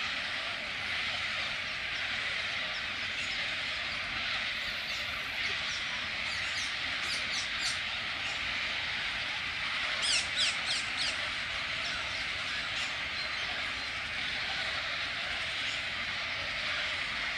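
Bird calls: two bouts of quick, sharply falling chirps, about six and ten seconds in, over a steady hiss.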